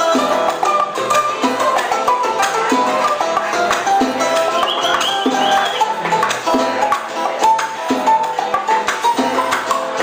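Live old-school Cuban band music: a plucked-string melody over a steady percussion beat.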